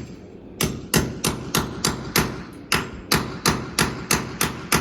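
Hammer driving anchors into drilled holes in a wall, so they grip: steady, even blows, about three a second, starting about half a second in.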